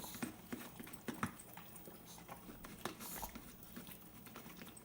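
Chihuahuas eating: faint, irregular clicking and crunching of chewing.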